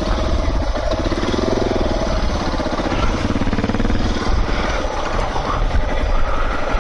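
Dirt-bike engine running steadily as the motorcycle is ridden, its rapid firing pulses continuous, with a strong low rumble.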